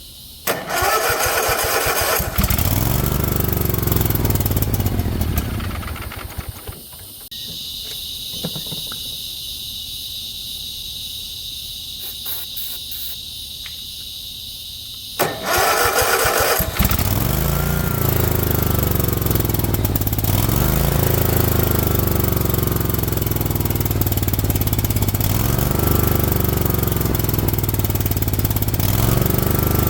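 Cub Cadet zero-turn mower engine cranked and catching briefly, then dying out. After about 9 quiet seconds it is cranked again and keeps running, but hunts, rising and falling every two to three seconds. This surging is the sign of an engine short of fuel; the owner suspects the fuel pump.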